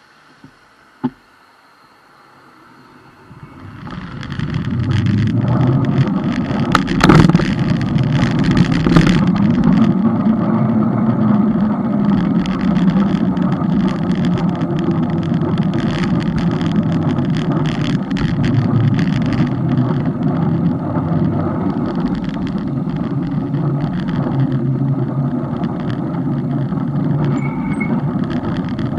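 A single click about a second in, then wind and road rumble on a bike-mounted camera that rises over about a second, starting about four seconds in as the bike gets moving, and holds steady.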